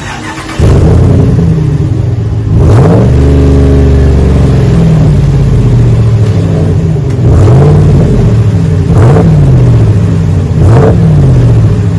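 5.7-litre Hemi V8 of a Ram 1500 pickup running through a single-chamber V-tube muffler with the stock resonators, revved in about four blips. It has a smooth rumble, not a straight-pipe gargle.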